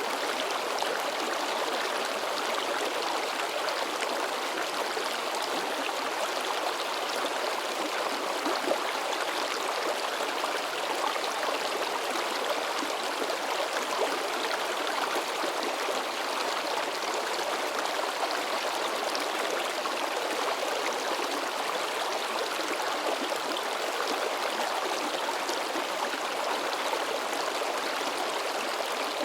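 Shallow forest river babbling and splashing over rocks: a steady, unbroken rush of water.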